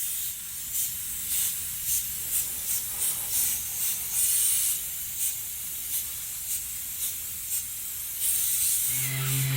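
Short hissing rubbing strokes, about two a second with a few longer ones, from hand prep work on a painted car bumper before refinishing. Background music with a steady low note comes in near the end.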